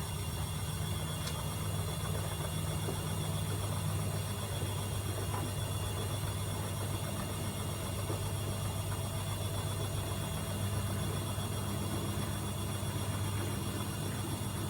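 AEG Öko-Lavamat 74780 washing machine running mid-cycle: a steady low motor hum with faint high whines. The hum's pitch shifts slightly a few times.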